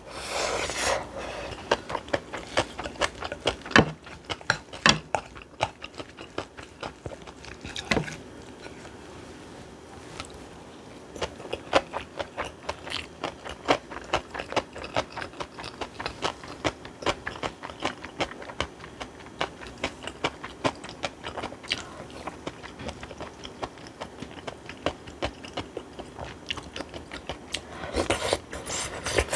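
Close-miked chewing of a mouthful of aged-cucumber bibimbap: a steady run of quick wet, crunching bites, several a second, with a few louder knocks along the way.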